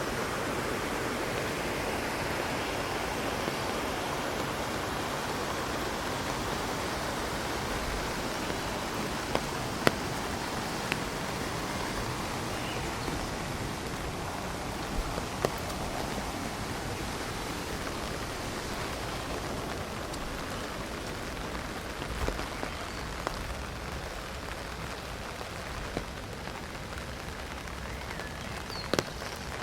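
Heavy rain hitting an umbrella: a steady hiss with scattered sharper ticks of single drops.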